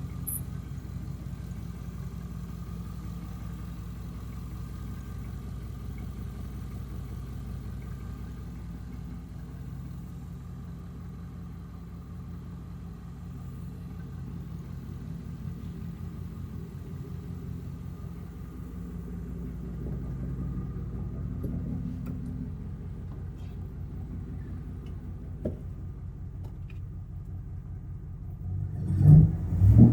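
A 2007 Chevrolet Avalanche's 5.3L LC9 V8 idling steadily, then revved briefly twice near the end, each rev a short loud burst.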